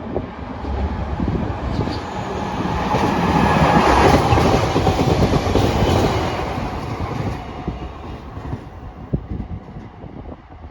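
A train of two JNR DE10 diesel-hydraulic locomotives and a Maya 34 track-inspection car passing by. The rumble and wheel clatter grow to their loudest about four seconds in, then fade away.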